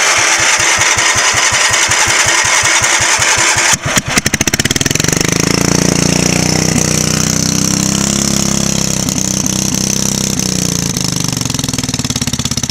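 Engine of a 1970s Generac generator, run with its oil drained. It is cranked with even pulses, then fires about four seconds in and runs steadily, and starts to slow near the end.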